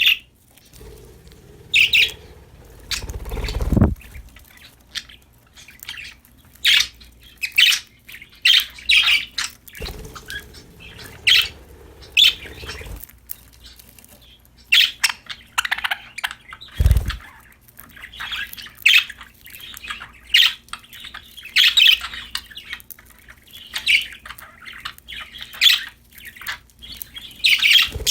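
Budgerigars chirping and squawking in quick, short calls, with a few low thumps and rumbles, the sharpest about 17 seconds in.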